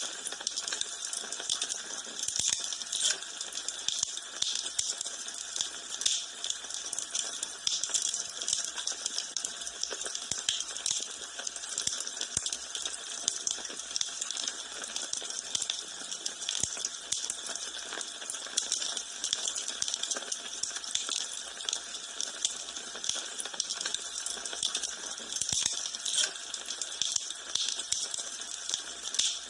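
Wood fire burning in a fireplace: dense crackling with frequent sharp pops over a steady hiss.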